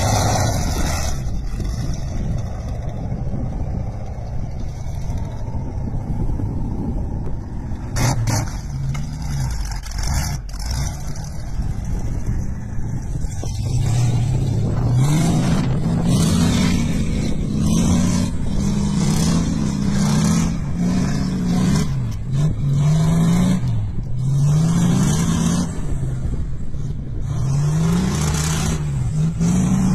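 Truck engine running steadily, then repeatedly revving, its pitch climbing again and again from about halfway on. There are two sharp knocks near the start of the second third.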